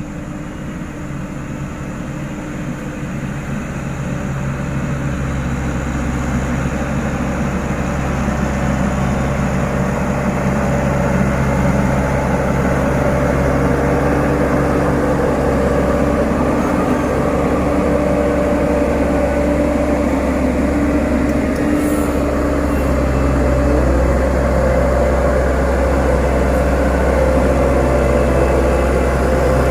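Diesel engine of a heavy road-construction machine running steadily, growing louder over the first ten seconds or so and then holding level.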